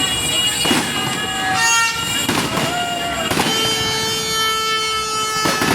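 Fireworks going off with a bang every second or so, while horns toot in short blasts and then one horn holds a long steady note for about two seconds in the second half.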